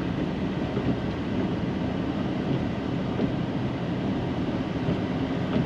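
Snow-plow pickup truck's engine running with a steady rumble.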